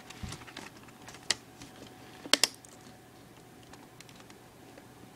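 Scattered light plastic clicks and taps from handling the parts of a partly disassembled IBM ThinkPad laptop. The loudest is a quick double click a little past two seconds in.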